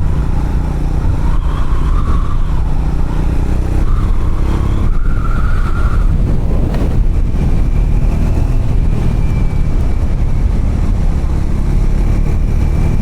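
Triumph Scrambler motorcycle engine running steadily as the bike rides along a gravel road, with a constant rush of wind and road noise over it.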